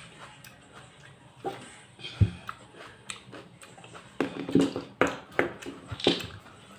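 Close-up mouth sounds of someone chewing raw tomato, with scattered sharp clicks that come thicker in the second half. A single low thump about two seconds in.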